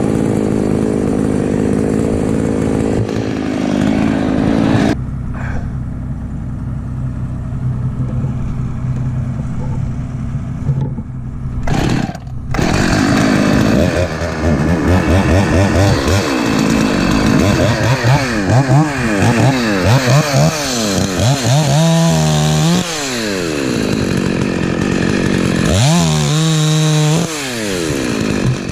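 Husqvarna 254 two-stroke chainsaw running: steady for the first few seconds, quieter for a stretch, then revved up and down again and again through the second half.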